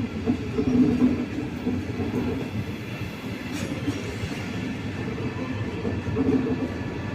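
Passenger train moving along the track with a steady rumble of wheels on rails and faint steady tones above it.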